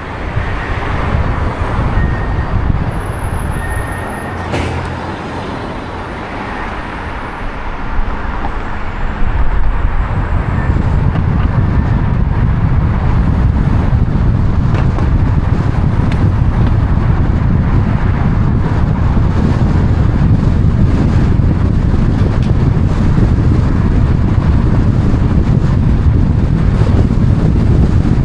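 Road traffic noise: vehicles passing, which about nine seconds in becomes a louder, steady low rumble.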